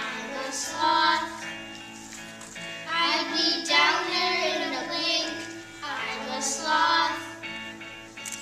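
Children singing a song together over instrumental backing music, in phrases of a few seconds with the accompaniment holding notes between them.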